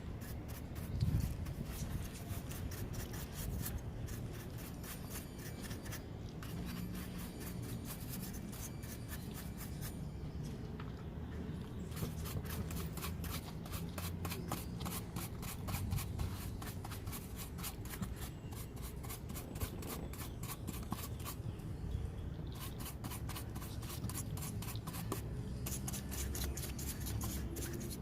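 Detailing brush scrubbing engine-bay surfaces in quick, regular back-and-forth strokes, with a low rumble underneath.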